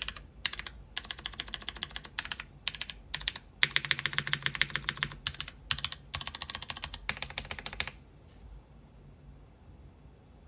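Fast typing on a polycarbonate-cased mechanical keyboard with lubed Cherry MX Brown switches, an aluminium plate and GMK keycaps: quick runs of keystrokes in short bursts, densest and loudest around four to five seconds in. The typing stops about eight seconds in.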